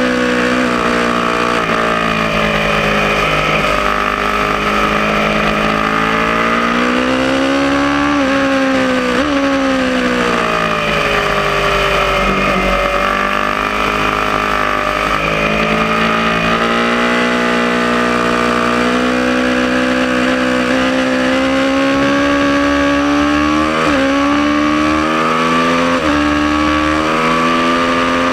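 Aprilia Tuono motorcycle engine at full pace on a racetrack, its pitch dropping under braking and climbing again through the gears several times, with quick gear changes near the middle and towards the end.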